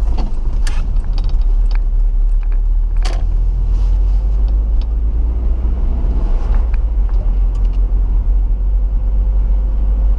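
Inside the cab of a 1997 Nissan pickup driving on snow: a steady low rumble of engine and road noise, with a couple of sharp knocks or rattles, one just under a second in and another about three seconds in.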